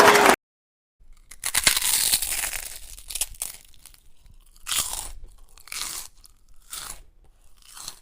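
A chocolate chip cookie crunching as it is bitten into, then chewed with a crunch about once a second.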